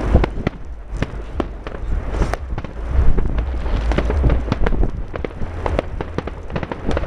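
Firecrackers going off in an irregular volley, several sharp bangs and cracks a second, over a steady low rumble.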